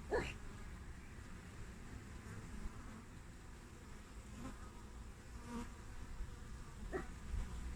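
Honeybees buzzing at the hive entrance, with single bees buzzing briefly and more loudly as they pass close by, four times: just after the start, twice in the middle and once near the end.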